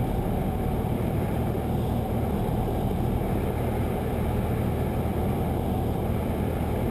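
Cessna 172's single piston engine and propeller heard from inside the cockpit as a steady low drone, even in loudness throughout.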